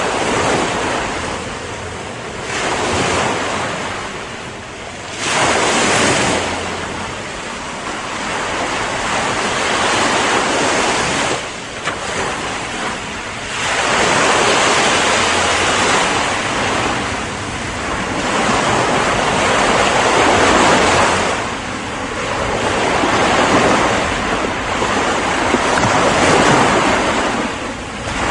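Ocean waves breaking and washing on a shore, a continuous surf noise that swells and ebbs every few seconds, with wind on the microphone.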